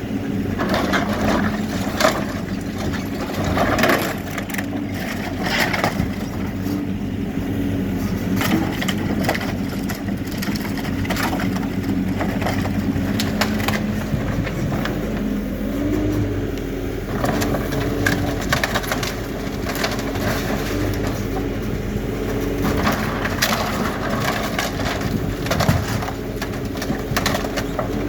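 Backhoe loader's diesel engine running steadily under load while its bucket breaks up a building, with repeated cracking, crunching and knocking of debris throughout.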